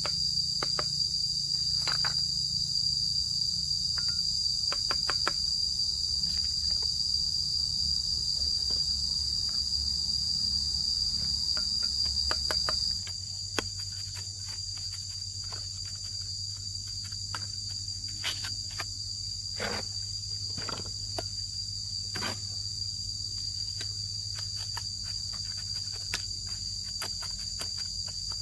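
Steady, high-pitched insect chorus with scattered light knocks and taps. About halfway through the background changes abruptly: a low rumble drops away and the overall level falls slightly.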